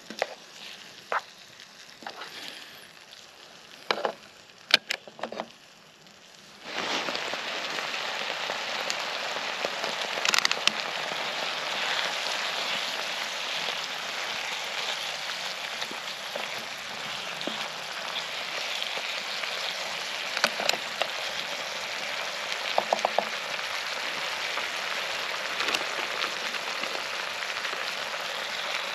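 Chopped peppers, tomatoes and onion frying in a pan. At first there are a few light knocks and scrapes as a wooden stick stirs them; about seven seconds in, a loud, steady sizzle starts suddenly and carries on.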